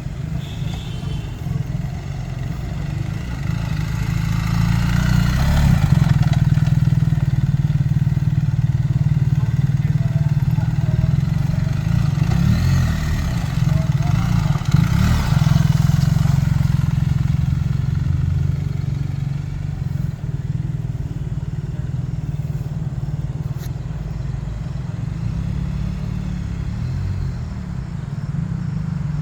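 BMW R 1300 GS boxer-twin engine running as the motorcycle is ridden, revving up and getting louder twice, at about four seconds and again at about twelve seconds, then settling back to a steadier pace.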